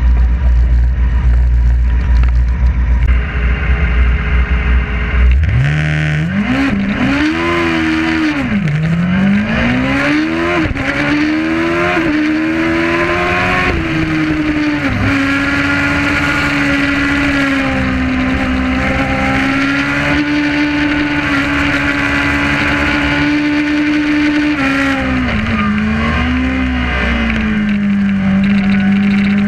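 Suzuki GSX-R750 inline-four engine heard onboard: it idles low for about five seconds, then revs up hard and climbs through the gears, the pitch rising and dropping back with each quick shift. It then holds steady at high revs, dips briefly and falls off near the end.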